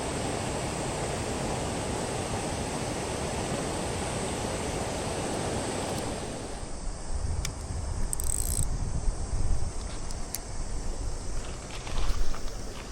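Steady rush of a flowing mountain stream. About six and a half seconds in it drops away, leaving low rumbles of wind and handling on the microphone and a few sharp clicks.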